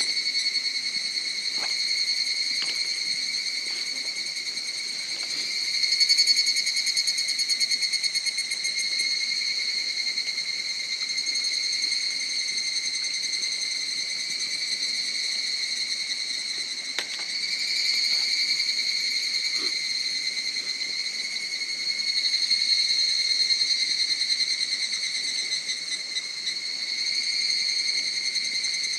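Insects chirring in a continuous, steady high-pitched drone that swells a little a few times, with a few faint clicks.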